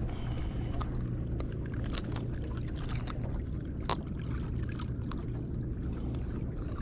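Steady low rumble of a small boat on the water, with a few scattered light clicks and knocks from handling, the sharpest about two seconds and four seconds in.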